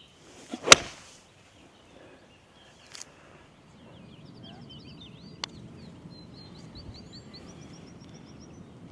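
Small birds singing rapid, high trilled chirps over a steady outdoor hiss, with one loud sharp crack under a second in and two fainter clicks later.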